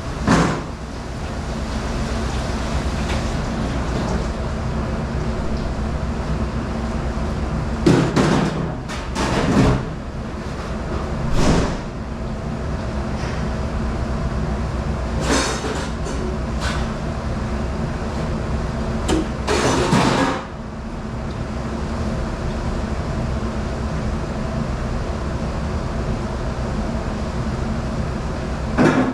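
A steady low mechanical hum, broken by about eight short clattering knocks and bangs, most of them between eight and twenty seconds in.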